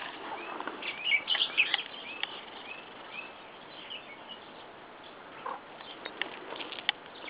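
Small birds chirping: a string of short, high notes that dip in pitch, busiest in the first three seconds, then sparse. A few faint sharp clicks come near the end.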